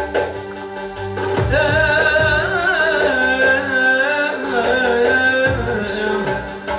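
Albanian folk song with a band: a steady drum beat under a wavering, ornamented lead melody, held from about a second and a half in to about five and a half seconds.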